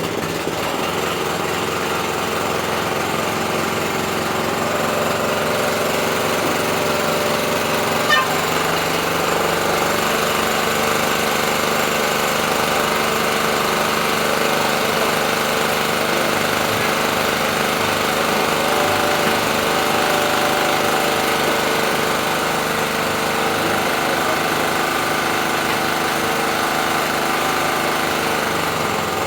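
Two-stroke brush cutter engine running at a steady speed, just after being started following its repair.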